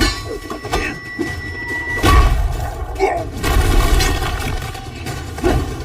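Film fight sound effects: a series of heavy booming impacts and crashes, the loudest about two seconds in and again around three and a half to four seconds, over an orchestral action score.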